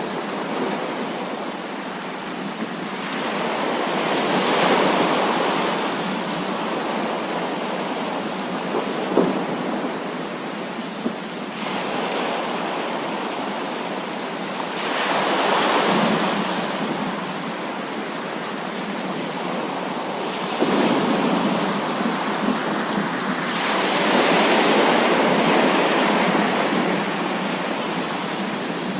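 Heavy rain falling steadily, with thunder rolling in and swelling louder several times before fading back. A few short sharp cracks stand out about a third of the way in.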